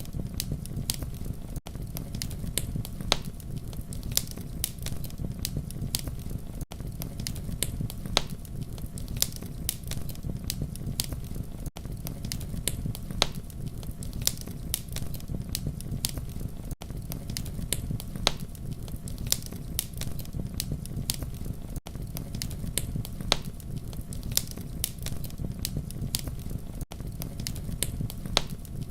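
Campfire burning: a steady low rumble of flames with frequent sharp crackles and pops of burning wood. The sound drops out for an instant about every five seconds.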